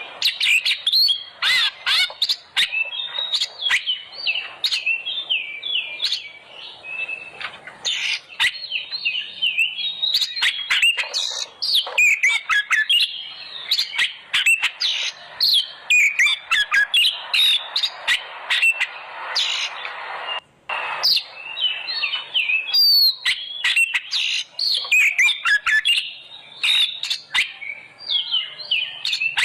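Oriental magpie-robin singing a loud, fast, almost unbroken song of rapid chirps, whistled glides and sharp clicking notes. It is the fired-up, aggressive song used as a lure to set other magpie-robins singing.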